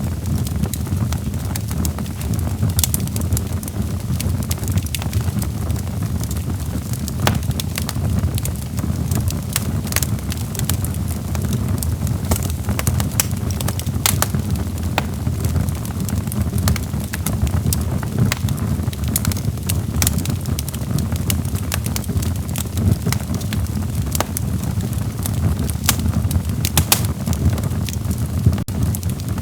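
Log fire burning in a fireplace: a steady low rumble of flames with frequent, irregular sharp crackles and pops from the logs.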